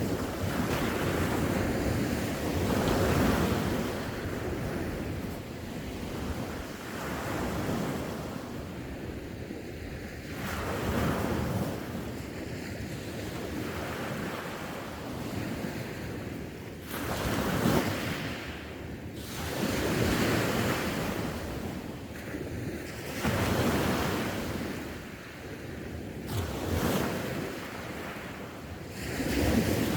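Sea waves breaking and washing on the shore, the surf swelling and falling back every few seconds, with wind rumbling on the microphone.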